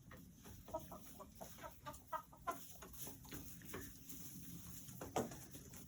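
Hens clucking softly, with scattered short clicks; the brief calls cluster in the first half.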